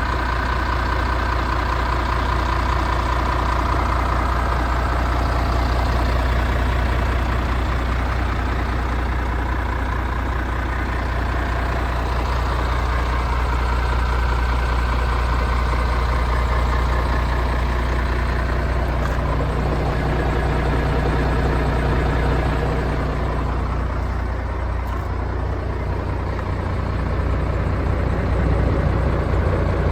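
MAN TGX 26.470's straight-six diesel engine idling steadily.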